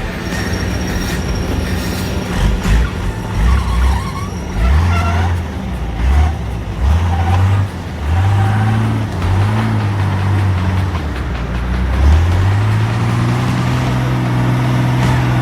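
Competition trial truck's engine revving up and down again and again under load, then holding steady at higher revs from about twelve seconds in.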